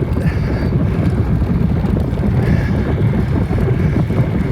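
Steady wind rumble buffeting the microphone of a phone carried on a moving bicycle.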